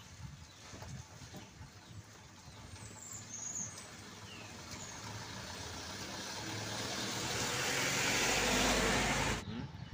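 A truck approaching along the road, its engine and tyre noise growing steadily louder, then cutting off abruptly shortly before the end. A bird chirps briefly about three seconds in.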